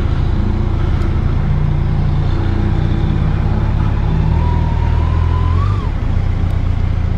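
Motorcycle engine running at low town speed, its pitch shifting up and down in steps, over steady road and wind noise.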